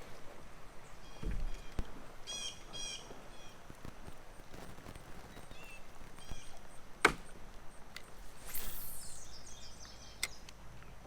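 Small birds chirping in short quick series, over outdoor background hiss. A few knocks and clicks sound in between, the sharpest about seven seconds in, and a falling swish follows a moment later.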